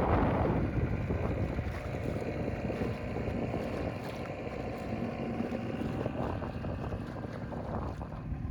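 Wind buffeting the microphone with a steady rush of noise aboard a moving boat, gustier in the first moment.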